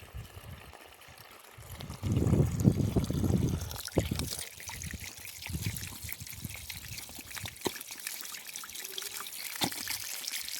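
Water trickling, with a low rumble about two seconds in that fades out about two seconds later.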